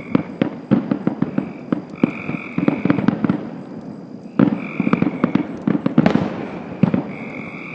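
Fireworks crackling and popping in rapid clusters of small sharp bangs, with a short lull about halfway through. A high steady tone sounds on and off several times over the crackle.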